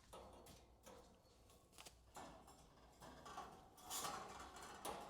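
Faint rustling and light knocks of handling in a small room, with a louder rustle about four seconds in.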